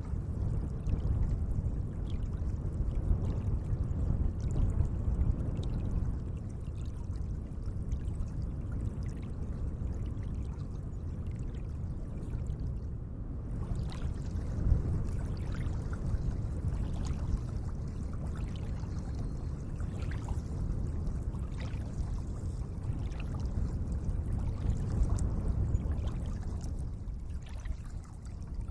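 Gentle lake water: a steady low wash with many small splashes and drips scattered through it.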